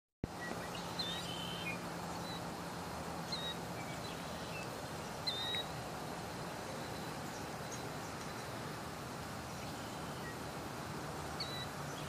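Short, high bird chirps a few times, about a second in, around three and five seconds in, and again near the end, over a steady outdoor background hiss with a low hum.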